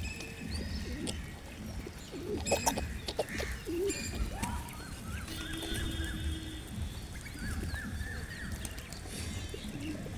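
Several birds chirping and calling in short, repeated notes at a feeding spot. A few sharp knocks come about two and a half seconds in.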